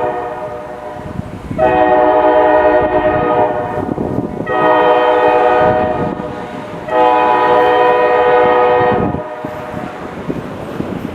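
Diesel freight locomotive's multi-tone air horn sounding a series of long blasts, as trains do for a grade crossing. The tail of one blast is followed by three more, each about two seconds long, the last ending near the end, over the low rumble of the train.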